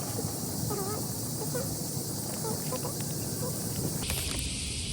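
Cicadas droning steadily, with short chirps over them. About four seconds in, the drone abruptly gets broader and louder.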